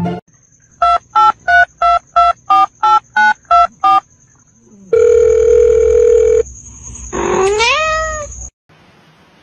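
About ten quick phone-keypad beeps, roughly three a second, then a steady phone tone lasting over a second, then a cat's single meow that rises and then falls in pitch. A thin high whine runs under the beeps and the tone.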